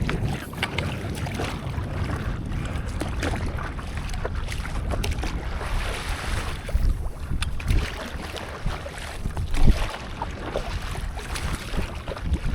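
Seawater splashing and sloshing around a stand-up paddleboard, with short sharp splashes throughout and a louder one about two thirds of the way in. Wind buffets the microphone with a low rumble.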